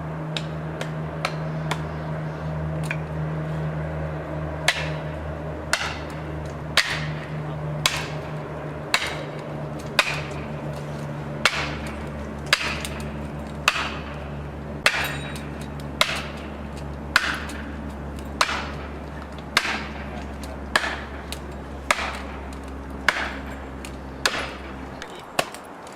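An engine runs steadily while sharp, hard strikes repeat at an even pace, about one a second, starting about five seconds in. The engine drone cuts out shortly before the end while the strikes go on.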